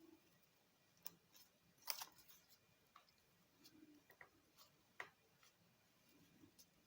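Near silence with faint, scattered crackles and ticks of origami paper being folded and creased by hand, the sharpest about two seconds and five seconds in.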